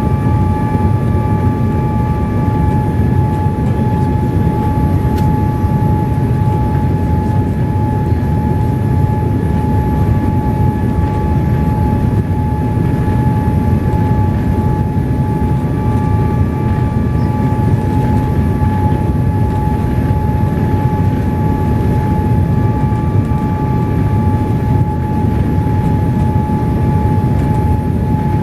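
Boeing 787-8 Dreamliner cabin in flight: steady jet engine and airflow rumble with a constant whine over it.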